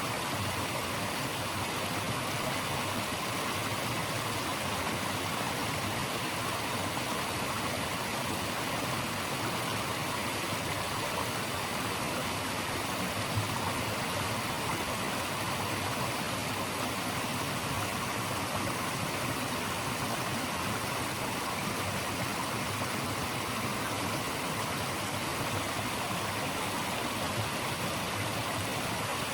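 Steady rushing of running water, an even noise with no pauses or changes in level.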